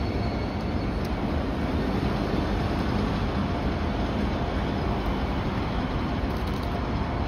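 A train running, a steady low rumble with no clear beginning or end.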